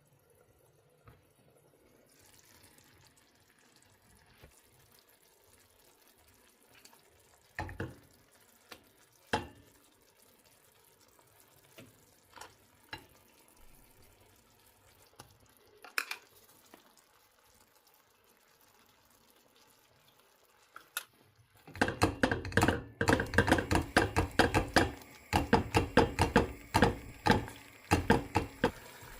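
A few scattered small knocks and clicks, then near the end water running and splashing noisily into a sink.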